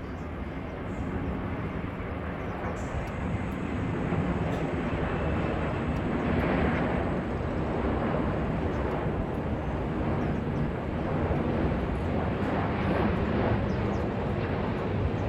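Jet airliner engine noise, a steady rumble that grows gradually louder.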